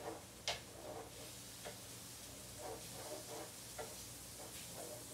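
A metal cooking utensil clicks against the griddle a few times while bologna fries with a faint sizzle; the two loudest clicks come in the first half-second.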